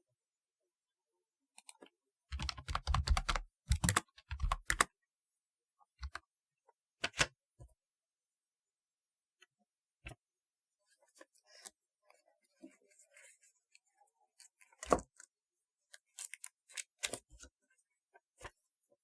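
Typewriter-style keyboard being typed on: a quick run of clacking keystrokes a couple of seconds in, then slower, scattered single keystrokes with pauses between them, one of them louder.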